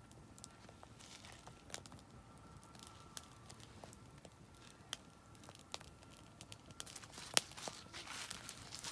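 Oak firewood burning in a campfire, crackling with scattered sharp pops. There is one loud pop a little past seven seconds in, and the crackling grows denser near the end.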